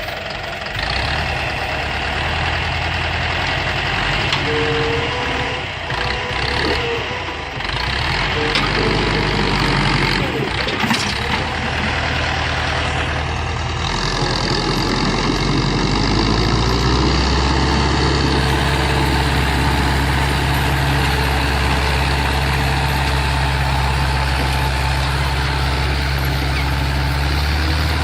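Heavy truck engine running with a deep, steady drone, its sound shifting a few times.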